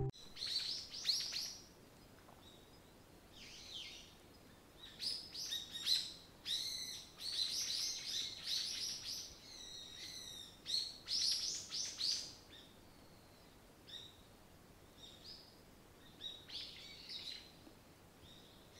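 Small birds chirping in quick, high-pitched clusters, busiest from about five to twelve seconds in, with scattered chirps before and after.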